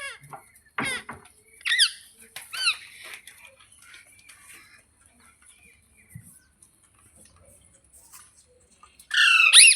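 A pet parrot giving short, harsh, falling calls: a few squawks in the first three seconds, then a loud burst of screeching near the end.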